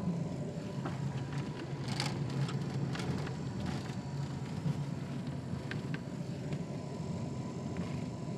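Car running, heard from inside the cabin: a steady low rumble of engine and road noise, with a few light clicks and knocks.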